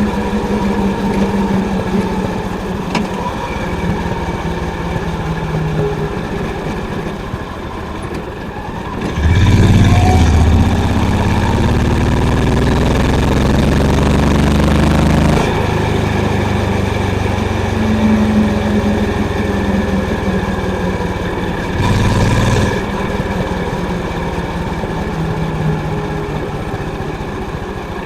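Honda CB350's air-cooled single-cylinder engine running under way, its exhaust thumping steadily. The exhaust grows much louder and climbs in pitch from about nine seconds in for several seconds, and swells again briefly near 22 seconds.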